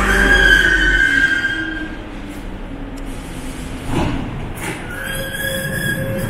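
Nanjing Metro subway train running, with a steady high whine over wheel and rail rumble. The whine fades about two seconds in, and a knock comes about four seconds in.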